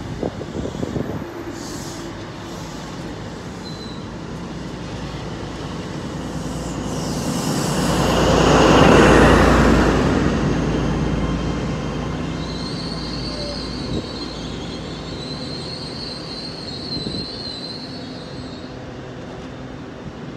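A Class 43 HST diesel power car passing close by at speed, the train's noise building to its loudest about nine seconds in with a deep engine rumble. A few wheel clicks come in the first second, and a high, wavering squeal follows for several seconds after the power car has passed.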